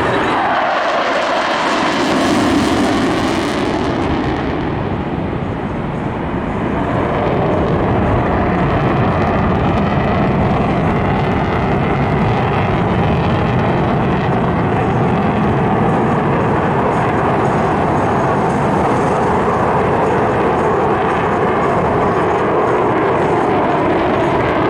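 Airplane engine noise during an airshow flight, loud and continuous, with a falling pitch in the first couple of seconds.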